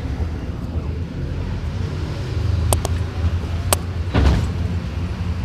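Mercedes-Benz OF-1721 bus's diesel engine running with a steady low drone. There are a few sharp clicks near the middle and a short rushing burst about four seconds in.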